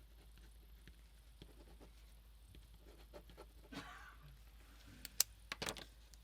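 Hands working with paper and craft supplies on a tabletop: soft taps and scrapes, a brief rustle a little past halfway, then a few sharp clicks about five seconds in.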